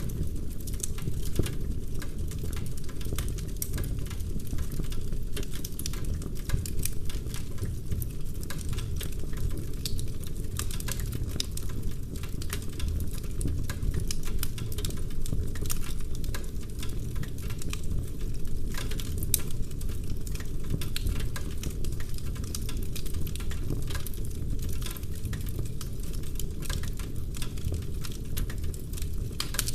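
Wood fire in a fireplace crackling, with many small sharp pops of burning logs over a steady low rumble of the flames.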